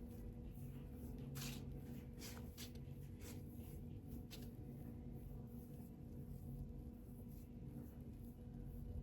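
Faint light rustling and scraping handling sounds, a few short scratches in the first half, over a steady electrical hum.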